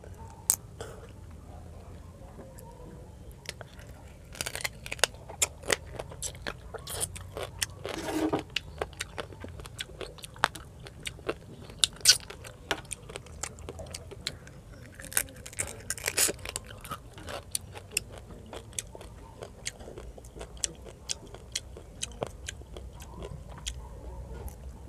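Close-miked chewing of a person eating fried fish and rice by hand: irregular wet mouth smacks and scattered crunches, thickest around the middle.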